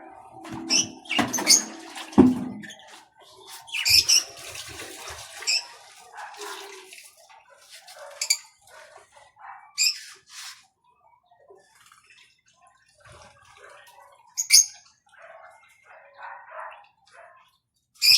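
Small birds splashing and fluttering in bathing water, with short, sharp chirps every few seconds; the splashing is busiest in the first five seconds.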